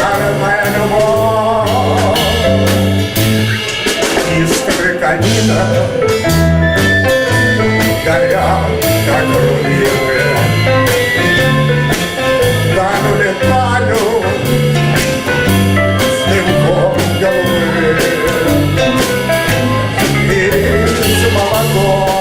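Live band playing an instrumental passage of an old tango: a bass line stepping through notes at an even pace under a melody line.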